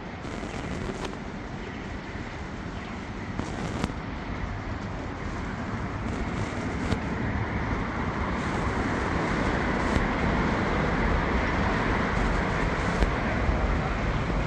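Steady hiss of city traffic on rain-wet streets, swelling louder in the second half, with a few faint ticks.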